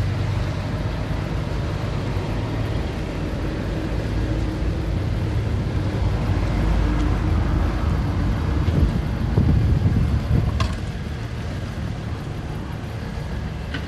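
Heavy earthmoving machine's diesel engine running steadily, working harder with a louder, rougher rumble about nine to ten seconds in. Two short sharp clicks come later.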